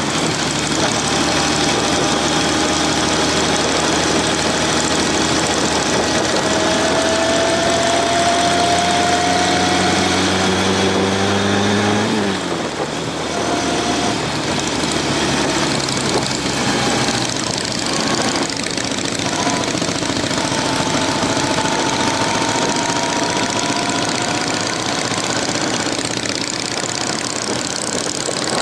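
Honda CB750 motorcycle engine running under way, over a steady rush of wind noise. The engine note climbs for several seconds, drops sharply about twelve seconds in, then climbs again in the second half.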